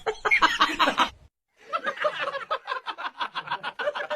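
A person laughing: voiced laughter in the first second, a brief break, then quick, rhythmic chuckling that runs on.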